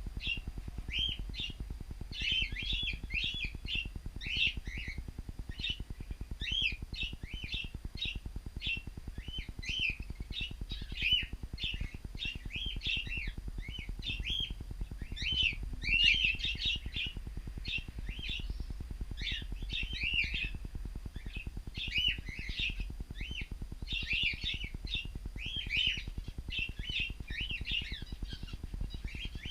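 A flock of cockatiels chirping: many short calls in quick, overlapping succession, several a second, over a low steady hum.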